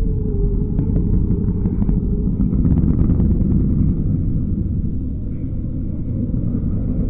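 Car engine running with a deep, low rumble, growing louder to a peak about three seconds in and then easing off.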